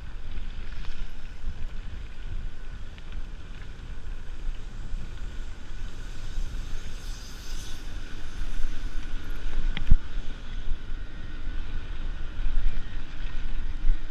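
Wind rushing over the microphone of a rider on a moving mountain bike, a dense low rumble with a steady haze above it, and one sharp knock about ten seconds in.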